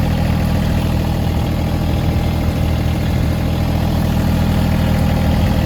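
Engine idling steadily, with an even low hum that holds the same pitch throughout.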